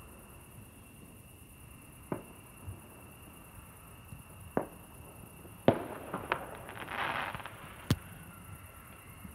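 Fireworks going off: single sharp bangs a few seconds apart, then a cluster of bangs about halfway through that breaks into a brief crackle, and one more sharp bang near the end.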